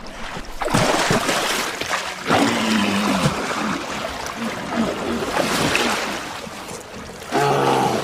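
Walrus herd bellowing and grunting over a steady wash of surf, with background music. A short deep call comes about two seconds in, and a louder bellow near the end.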